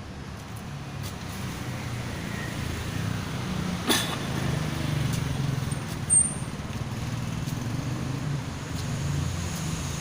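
Uneven low rumble of road traffic, with a single sharp click about four seconds in and a brief high squeak about six seconds in.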